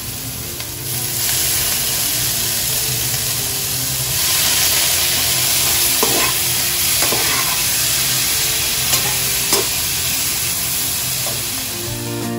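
Chopped vegetables sizzling in a hot pan after a splash of water, with a slotted spatula stirring them and clicking against the pan a few times. The hiss swells about a second in and again about four seconds in.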